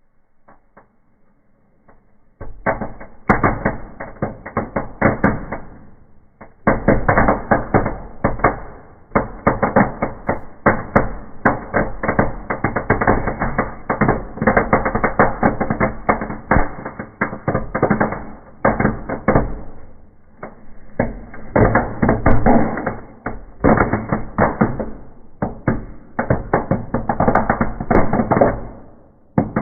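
Birch bark burning in a fireplace, crackling densely in rapid popping waves that start a couple of seconds in and ease off briefly twice.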